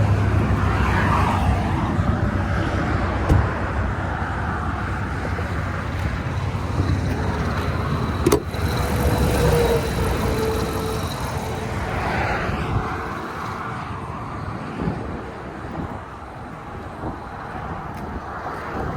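Steady road and engine noise heard inside the cabin of a moving Chrysler 300S, growing quieter in the second half.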